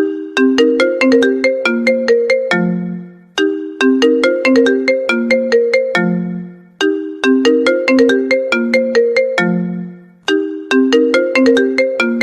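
iPhone ringtone, a marimba melody, playing on a loop. Each time a quick run of struck notes ends on a lower held note that fades out, and the phrase starts again about every three and a half seconds.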